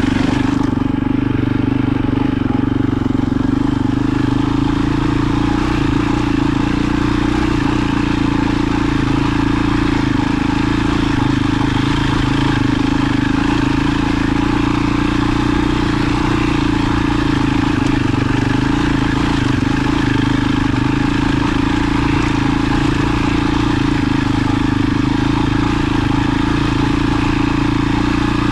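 A vehicle engine running steadily at a constant pace, with a strong even hum that holds throughout.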